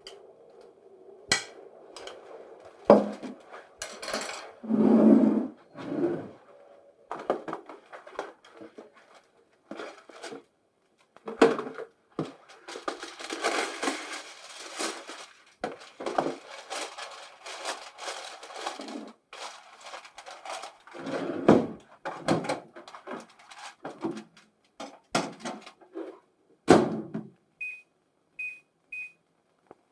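Kitchen handling sounds: dishes and objects knocked and set down, with a stretch of rustling. Near the end come three short, evenly spaced beeps of the same pitch from a microwave oven's keypad as it is set running.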